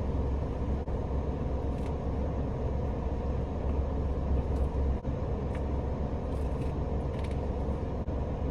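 Steady low rumble of an idling engine heard inside a Suzuki Every kei van's cabin, with a few faint light ticks and rustles over it.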